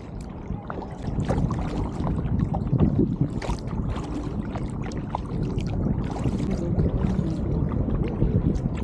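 Kayak paddle strokes in river water: repeated splashes and drips of the blades every second or so, over a steady low rumble.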